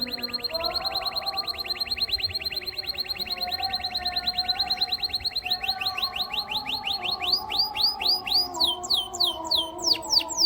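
Domestic canary singing a fast trill of repeated high notes, about ten a second. About halfway through, the trill slows into longer downswept notes, about three a second. A fainter wavering lower tone runs underneath.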